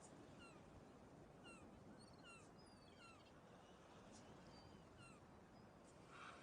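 Faint bird chirping: many short, quick chirps over a low hiss. Music comes in at the very end.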